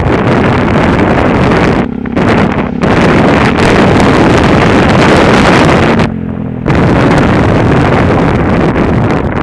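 Heavy wind buffeting on the microphone of a moving Yamaha WR125R motorcycle, whose 125 cc single-cylinder four-stroke engine runs underneath. Twice, about two seconds in and again about six seconds in, the wind noise drops briefly and the engine's steady note comes through.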